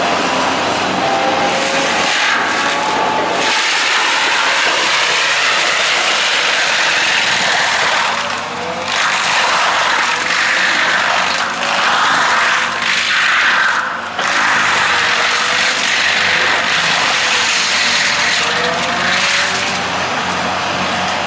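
Engine-driven wood-cutting machinery running hard, with a loud rasping noise whose pitch rises and falls. The level dips briefly about 8 and 14 seconds in.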